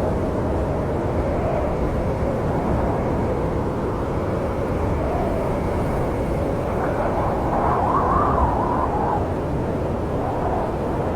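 Snowstorm wind blowing with a steady rumble and a wavering, howling whistle; a stronger gust rises and falls about seven to nine seconds in.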